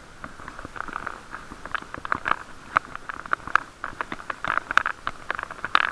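Bicycle ride heard through an action camera's waterproof case: many irregular sharp clicks and rattles over a steady hiss.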